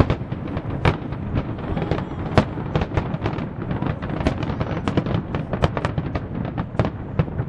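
Aerial fireworks shells bursting in rapid, irregular succession: a dense run of sharp cracks and bangs over a continuous low rumble.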